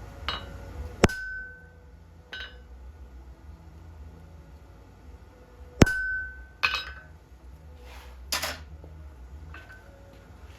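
Steel being struck and handled in a blacksmith's shop: a handful of irregular metallic clinks and hammer blows, each ringing briefly, the loudest about a second in and about six seconds in.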